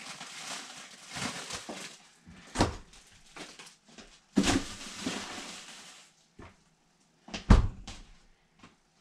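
Plastic bags of chicken feet rustling as they are put into a freezer, with several knocks, and a heavy thump about seven and a half seconds in that is the loudest sound.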